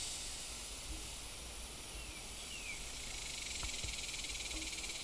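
A steady, high-pitched drone of summer insects, with two faint short falling whistles about two seconds in.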